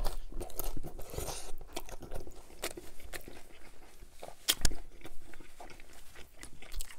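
A bite into a crunchy hard-shell corn taco, then chewing with irregular crisp crunches of the shell. The bite at the start is the loudest, and a second sharp crunch comes about four and a half seconds in.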